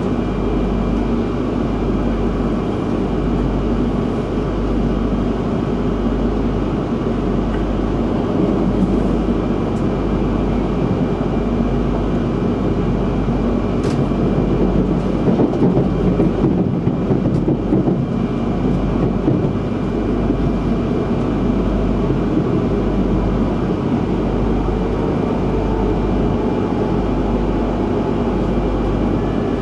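Interior running noise of an E3-series Shinkansen, heard inside the passenger cabin: a steady rumble of wheels on track with air hiss, a little louder around the middle. Near the end a faint whine falls in pitch as the train slows into a station.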